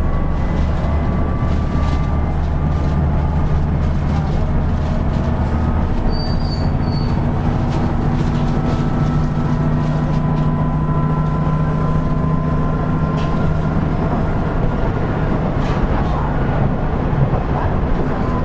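KiHa 110 series diesel railcar under way, heard from on board: a steady diesel engine drone over the rumble of wheels on rail, with a few faint high whines from the running gear. The engine note changes about six seconds in.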